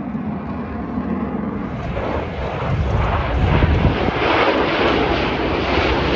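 Jet engine noise from Thunderbirds F-16 fighter jets flying past. It grows louder over the first few seconds, then stays loud with a crackling, ragged edge.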